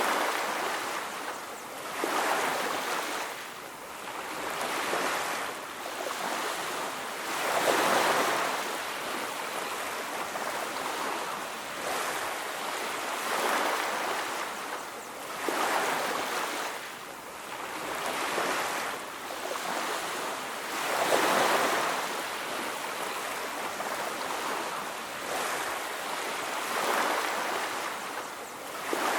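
Ocean surf on a beach: waves breaking and washing up one after another every few seconds, a steady hiss that swells and fades, with the biggest waves about 8 and 21 seconds in.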